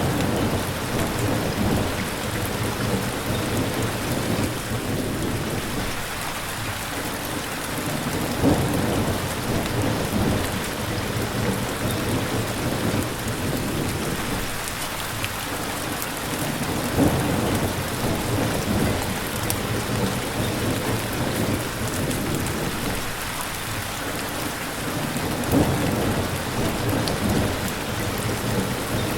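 Steady heavy rain falling, with low rumbles of thunder swelling up about every eight or nine seconds.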